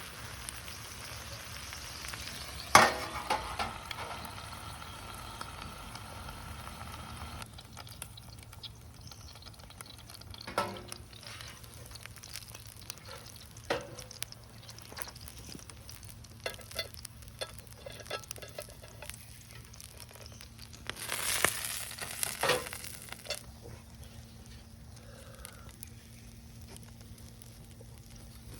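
Food sizzling in a pan, with small clinks and scrapes of a cooking utensil. A sharp knock comes about three seconds in, the sizzle drops off after about seven seconds, and a short, louder burst of sizzling comes about twenty-one seconds in.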